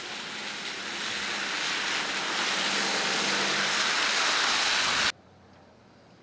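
A vehicle driving through slush on a snowy street: a rushing tyre hiss grows louder as it approaches, with a faint engine hum under it, then cuts off suddenly about five seconds in.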